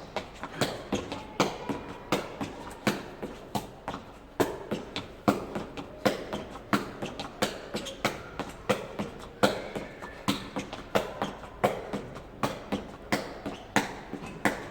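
A jegi, a Korean shuttlecock, kicked over and over with the foot: sharp taps in an even rhythm of about two to three a second.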